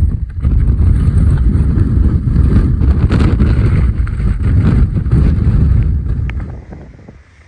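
Gusting blizzard wind buffeting the microphone as a loud, uneven rumble, dying down near the end.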